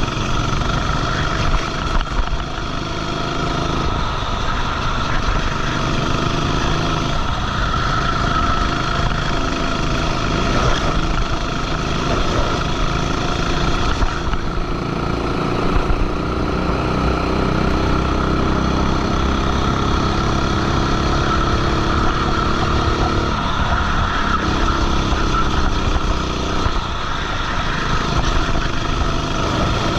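Go-kart engine running at racing speed, heard from onboard the kart. Its pitch rises and falls as it accelerates and lifts, with a steady high whine running over it.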